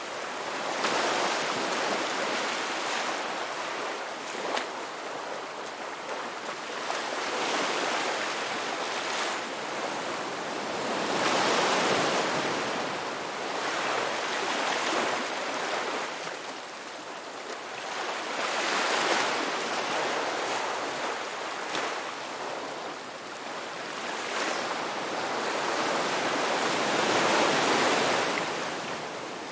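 Sea waves breaking and washing on a shore, a continuous surf hiss that swells and recedes every few seconds.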